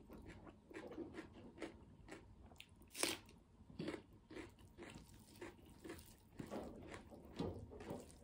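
Close-up chewing of a mouthful of maize rice mixed with kinema, with short wet smacking clicks about two to three a second and one louder crunch about three seconds in.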